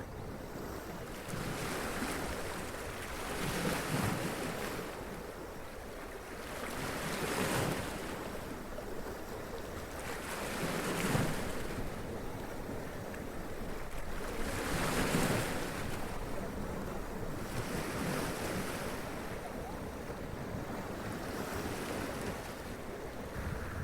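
Sea waves splashing and washing up over rocks, in surges every few seconds over a steady rush of surf.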